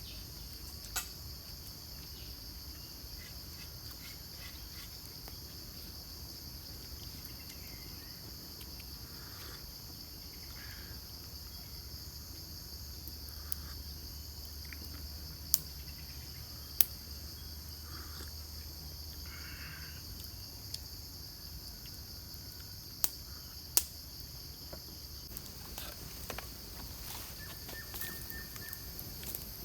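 Forest insect chorus: a steady high-pitched drone. A handful of sharp clicks or snaps sound over it, two around the middle and two a little later.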